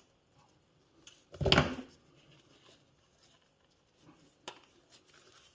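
Metal handling noises as a circlip is worked over a shaft in an e-bike motor: one louder scraping knock about a second and a half in, then a few faint small clicks.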